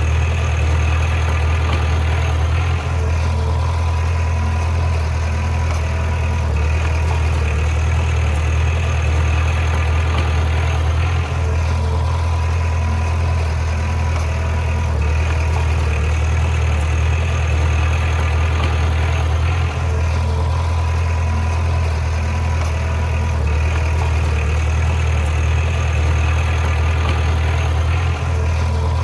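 Bulldozer's heavy diesel engine running steadily with a deep rumble, dipping briefly about every eight seconds.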